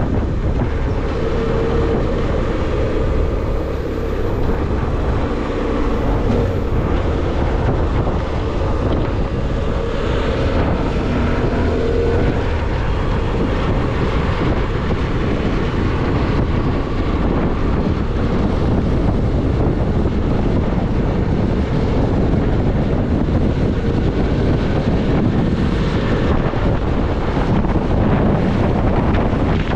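Motorcycle riding noise at road speed: wind rushing over the microphone, with the engine running underneath.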